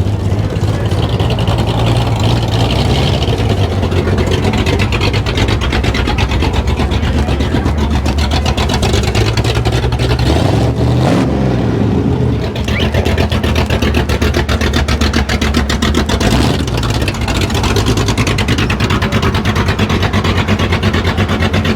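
A vehicle engine running close by, with a fast, even pulsing and a low steady drone; its pitch swings briefly about eleven seconds in, as if it is revved.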